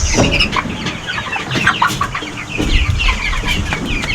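A flock of young chickens clucking and cheeping in quick, overlapping short calls, with a few low thumps.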